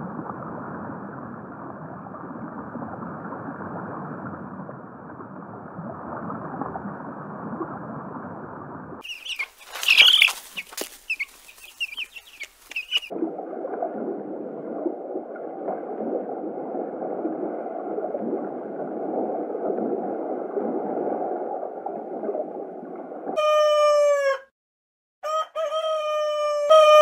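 A steady, even rushing noise, broken around the tenth second by a few seconds of higher hissing and clicking, then near the end a rooster crowing twice, loudly, each crow falling in pitch at its close.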